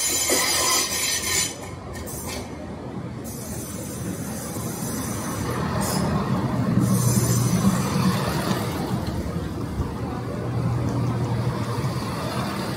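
CrossCountry Class 170 Turbostar diesel multiple unit pulling into the platform, its diesel engines droning and its wheels rumbling on the rails as the coaches pass close by. The sound swells to its loudest about seven seconds in. A high hiss is heard in the first second and a half.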